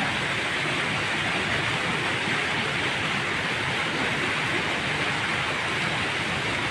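Heavy rain falling steadily on muddy water and ground, a dense, even hiss.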